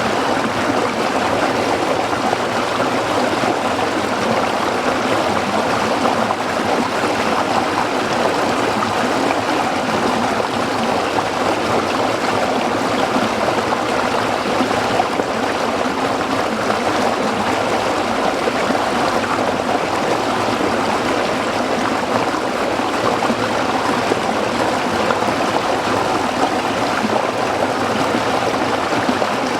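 A small stream flowing over rocks, a steady, even rushing and babbling of water.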